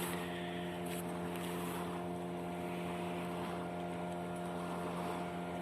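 Boat motor running at a steady speed, an even unchanging hum.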